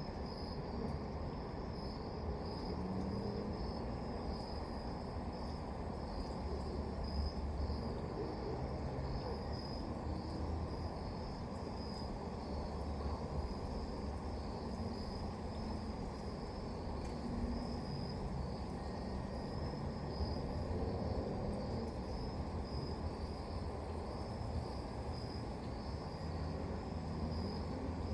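Crickets chirping in a steady, pulsing high trill over a constant low background rumble.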